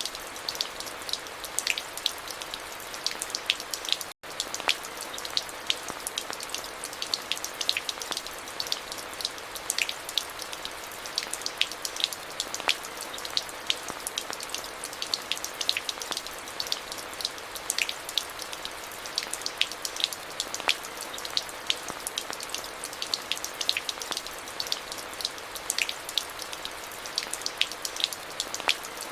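Steady rain, with many separate drops hitting close by over a constant hiss. The sound drops out for an instant about four seconds in, then carries on unchanged.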